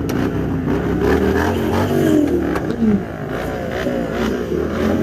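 Kawasaki ZX10R superbike's inline-four engine running through a loud SC Project exhaust, its pitch wavering up and down.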